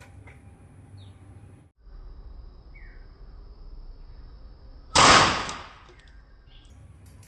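A single air rifle shot firing a 13.43-grain Knockout slug, a sharp report about five seconds in that fades over most of a second.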